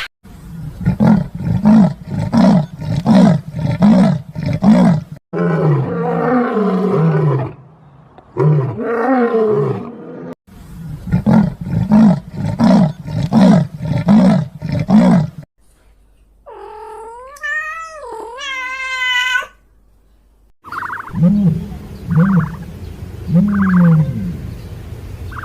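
Big cat calling in series of short, deep grunting roars, about two a second, heard in several separate runs. About two-thirds of the way through comes a single higher, drawn-out call that rises and falls in pitch.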